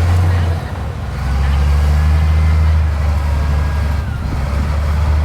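Heavy diesel engine of earthmoving machinery running with a steady low drone. The drone drops briefly about half a second in, then rises again, and a faint high whine falls in pitch near the end.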